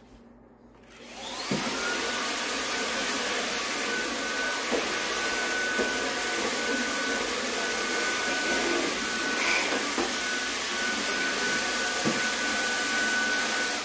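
Vacuum cleaner switched on about a second in, its motor winding up to a steady high whine and running evenly until it is switched off at the end. It is sucking up what blows out of a wood-burning fireplace when its door is opened.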